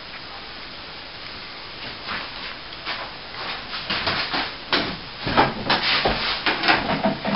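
Irregular scraping and knocking of a plasterboard sheet being raised on a sheet lifter, rubbing against the ceiling framing. It starts about two seconds in and grows busier and louder toward the end.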